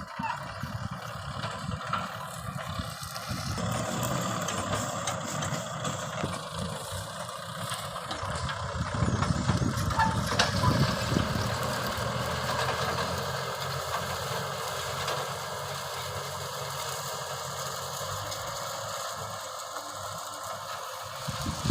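Kubota M6040 tractor's diesel engine running steadily while pulling a plough, growing somewhat louder about halfway through.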